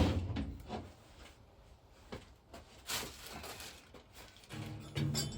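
Metal parts being handled and fitted: a few separate knocks and scrapes as a bracket and pipe are dropped on loosely, with a low steady hum joining in near the end.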